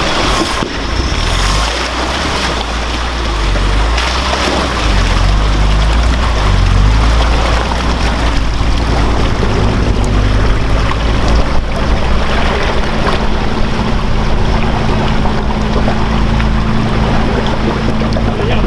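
Off-road truck engine running under load as it drives through deep water, with water splashing and churning around it. A steady engine tone comes in about halfway through and holds to the end.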